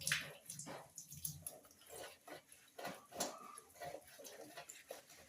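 Faint, irregular water splashes and drips mixed with small clicks, like things being handled in a basin of water.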